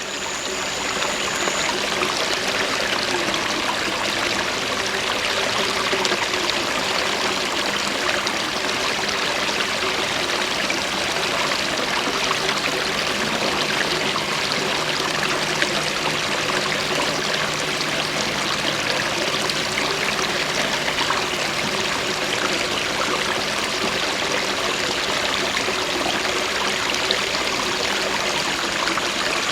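Water running steadily in a stream or paddy channel, a dense even rush with no breaks, fading in at the start.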